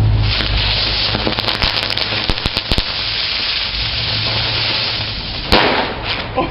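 Fireworks going off: a steady hiss with a quick run of sharp firecracker cracks, then one louder bang about five and a half seconds in.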